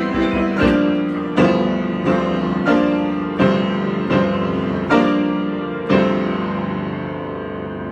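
Solo piano playing an improvised passage of slow chords, struck roughly once a second. Near the end one chord is held and left to ring and fade.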